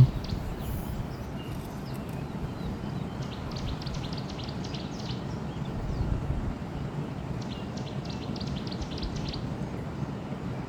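Birds calling in two runs of quick, short high chirps over a steady low background noise.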